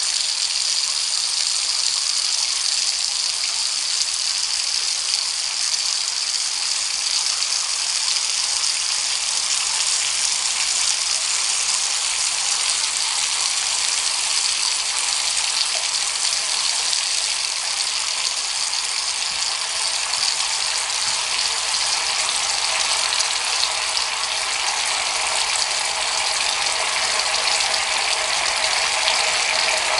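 Water running from a tap into a bath, a steady gush.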